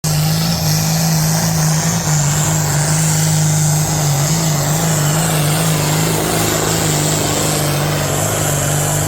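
Engine of a pulling vehicle running hard at high revs, a loud, steady, slightly wavering note held throughout.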